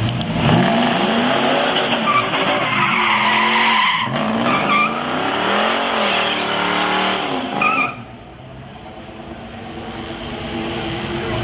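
Truck engine revving hard, its pitch rising and falling several times, then dropping off suddenly about eight seconds in to a lower sound that slowly builds again.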